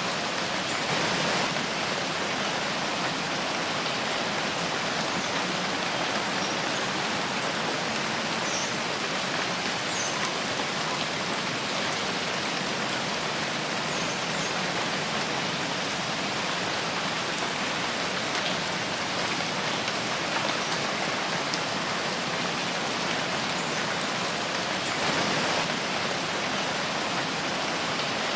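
Steady rain falling in a forest, a dense even patter with a couple of brief swells in intensity.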